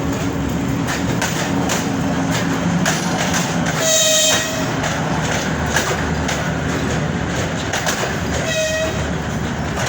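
Passenger train rolling through at low speed, its wheels clicking over the rail joints under a steady rumble. A train horn sounds a short blast about four seconds in and a shorter one near the end.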